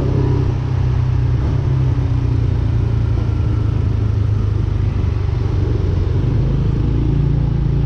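Kymco KRV 180 scooter's single-cylinder engine running at a steady cruise, its pitch holding nearly constant, under a steady rush of wind and road noise.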